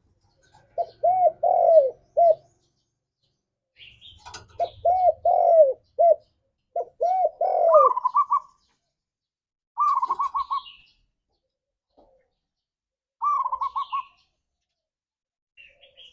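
Spotted dove cooing: three phrases of deep, arched coos, followed by three shorter runs of quick, higher-pitched notes, with faint high chirps in between.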